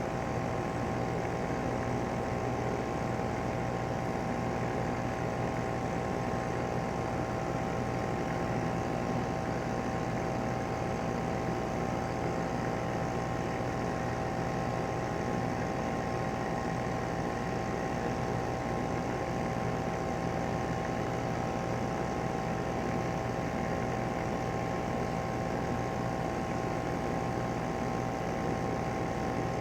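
Rheem 3-ton heat pump outdoor unit running steadily in cool mode: its Copeland scroll compressor and condenser fan give a smooth, even hum with a few steady tones and no rattling.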